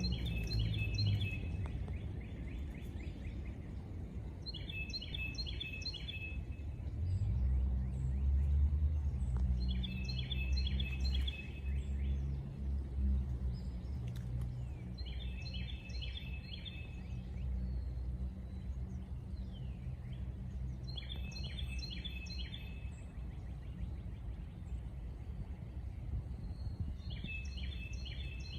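A songbird singing a short phrase of quick repeated notes about every five seconds, six phrases in all. A steady low rumble runs underneath, louder in the middle.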